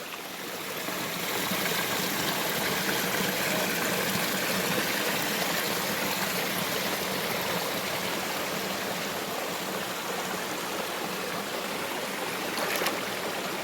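Steady rush of falling and flowing water at Madhabkunda waterfall, a dense even roar that grows louder over the first second or so.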